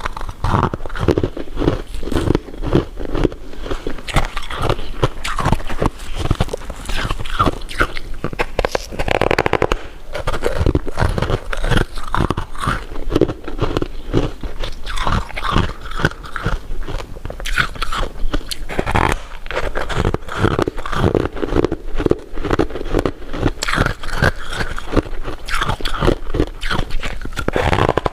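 Close-miked eating of sweets: a steady run of bites and chewing with crunching and crackling, the mouth sounds of jelly and crystal candy being eaten.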